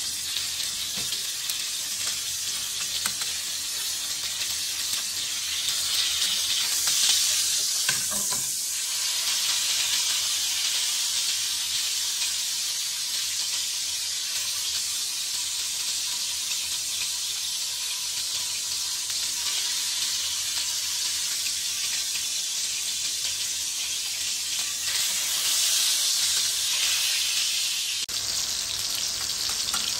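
Pork chops and garlic cloves frying in hot oil in a stainless steel pan, a steady sizzle that swells louder twice for a few seconds. There is a short knock about eight seconds in.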